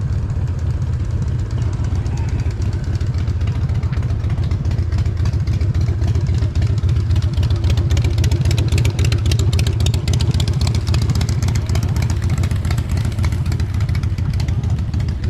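A vehicle engine running close by, a rapid low pulsing that gets louder and busier for a few seconds midway, as if revved.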